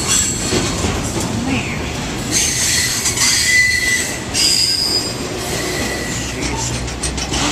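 Freight cars rolling past, their wheels squealing on the rail in thin high-pitched tones that come and go over a steady rumble.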